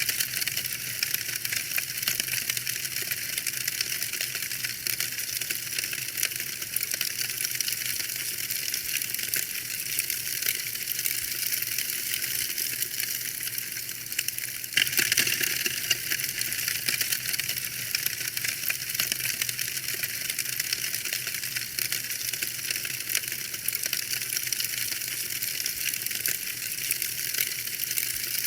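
Wood fire burning in a fireplace, crackling steadily: a dense run of small pops and snaps over a steady hiss, with a brief louder burst of crackling about fifteen seconds in.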